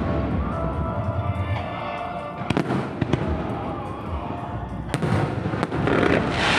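Aerial fireworks shells bursting, with several sharp bangs. Near the end a dense crackling hiss swells as a fan of comets is fired, and music plays underneath.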